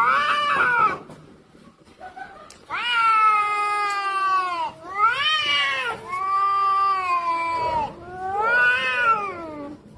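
Angry domestic cats caterwauling: long, drawn-out yowls that waver up and down in pitch, coming one after another after a brief lull near the start. These are the threat yowls of cats squaring off before a fight.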